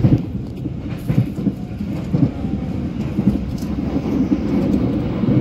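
Passenger train running, heard from inside the carriage: a steady low rumble with louder knocks from the wheels about once a second.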